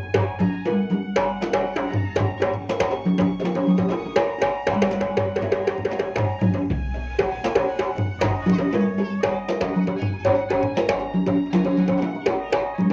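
Pencak silat accompaniment music played through a sound system: fast kendang drum strokes under held melodic notes, with a deep low boom about seven seconds in.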